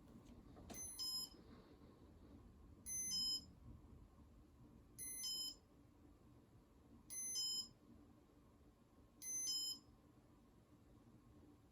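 Electronic beeper in a Casablanca Comfort Touch ceiling fan control giving five short two-note beeps, evenly spaced about two seconds apart, as it steps through its test (demo) mode.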